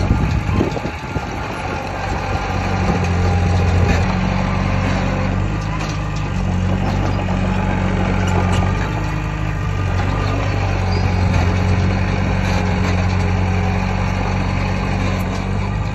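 Heavy diesel earthmoving machinery running steadily, with a short dip in engine sound about a second in and a swell around four seconds.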